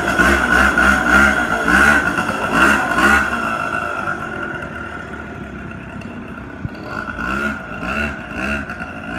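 Mini bike's small engine revving in repeated bursts, the pitch rising and falling with each twist of the throttle. It fades away after about three seconds and comes back revving again near the end.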